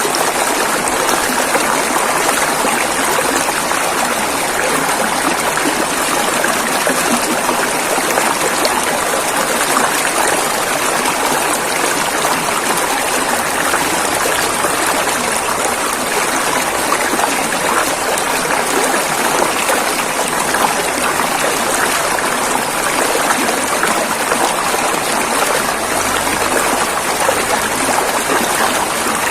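River water flowing in a steady, even rush that does not change.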